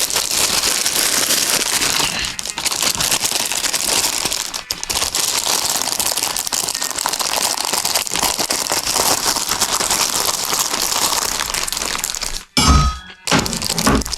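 Plastic packaging bags crinkling and rustling continuously as they are handled and opened, with a brief break and a single thump near the end.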